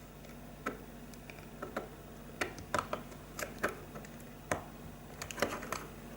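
Irregular light clicks and taps of small plastic connectors and wires being handled while a DC power plug is worked into the socket of a lighting linker plug.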